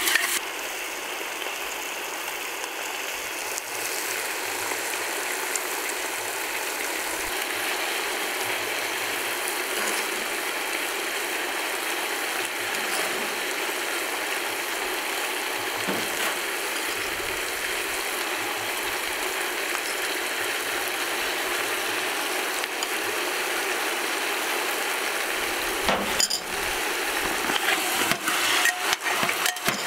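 Food sizzling steadily in hot oil in a pot, with a few knocks and clinks of a utensil against the pot near the end.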